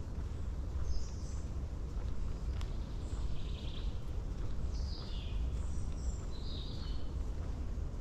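Small birds chirping: scattered short high chirps, a brief trill about three seconds in and a falling call about five seconds in, over a steady low rumble.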